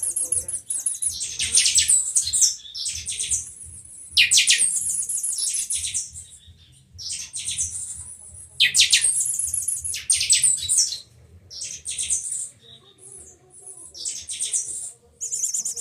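Buffy-fronted seedeater (pixoxó) singing a 'chanchão' song with 'matilda' phrases. It gives phrase after phrase of rapid, high notes, about ten phrases, with short pauses between them.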